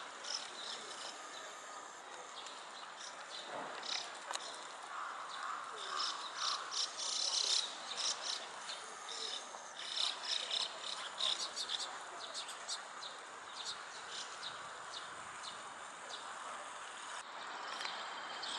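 Small birds chirping and twittering: many short, high calls in quick clusters, busiest in the middle, over steady outdoor background noise.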